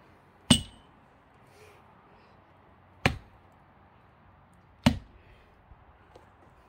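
Three sharp wooden knocks, a few seconds apart, as an axe stuck in a split pine log is struck to work the blade free; the first has a brief metallic ring.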